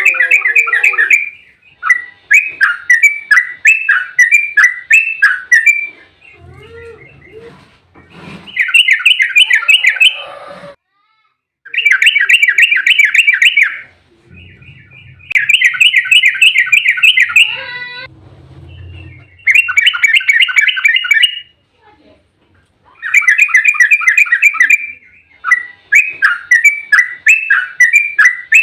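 Yellow-vented bulbul (trucukan) singing its fast rattling 'ropel' song: bursts of quick, bubbling notes about two seconds long, repeated over and over with short pauses between.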